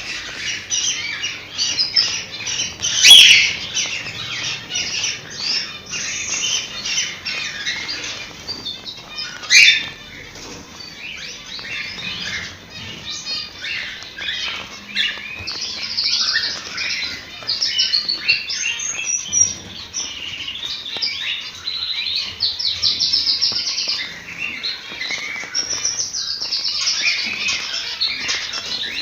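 A flock of cockatiels chattering and whistling continuously, with two loud, shrill calls standing out about three seconds and nine and a half seconds in.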